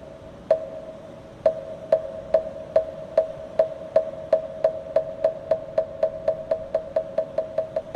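A moktak, the Korean Buddhist wooden fish, struck with a wooden mallet. Each strike rings with a hollow pitched tone, and the strikes start about a second apart and speed up steadily into a fast roll.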